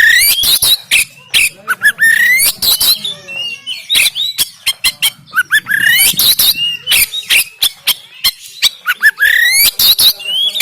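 Oriental magpie-robin (kacer) singing a harsh, rapid song: quick rising whistled phrases that return every few seconds, packed with sharp clicks and squawky notes.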